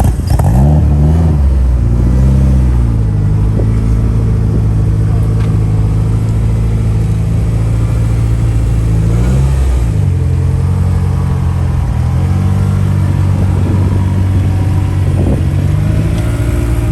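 A car engine running close by. It is revved twice in the first few seconds, then holds a steady note, with a short dip and rise in pitch about ten seconds in.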